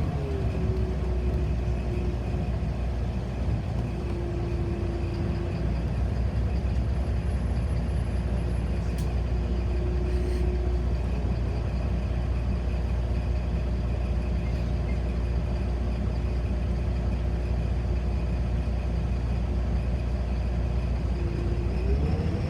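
City bus heard from inside, running at steady speed: a low rumble of engine and road with a steady drivetrain whine. The whine drops a little in pitch at the start and climbs again near the end as the bus picks up speed.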